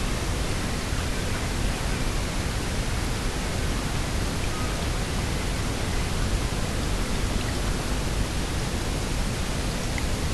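Steady coastal outdoor ambience: an even rushing noise with no distinct events.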